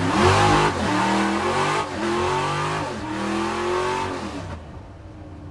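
Ford Corcel's four-cylinder engine revved several times, its pitch climbing and falling back with each blip, then dropping lower and quieter near the end.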